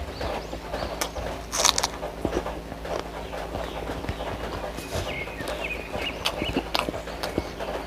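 Close-up eating sounds: chewing with many short, wet mouth clicks and smacks, with a louder one about a second and a half in.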